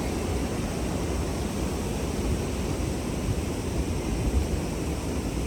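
Steady rushing of river water, with wind rumbling on the microphone.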